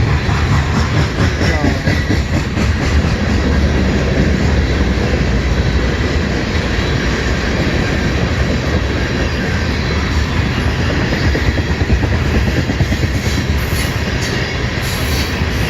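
CN freight train moving past slowly, with a steady sound of steel wheels running on the rails.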